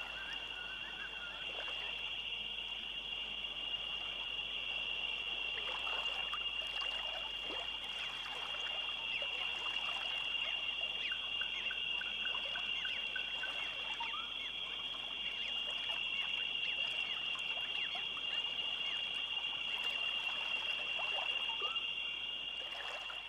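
A steady, high-pitched animal chorus, such as massed frogs or insects calling, with many short chirping calls scattered over it and a brief rapid series of ticks about halfway through.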